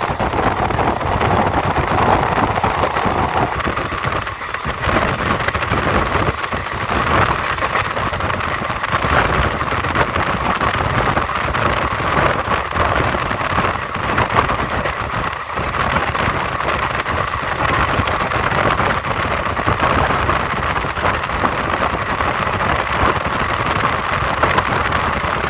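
Passenger train running along the track, a steady rushing rumble with no pauses.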